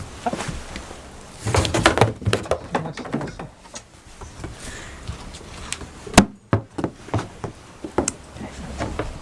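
A short pulsing, voice-like animal call about a second and a half in, then scattered sharp knocks and clicks on wood, with one loud knock about six seconds in.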